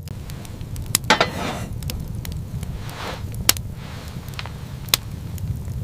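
Wood fire crackling: irregular sharp pops over a steady low rumble, with two soft rushing swells about one and three seconds in.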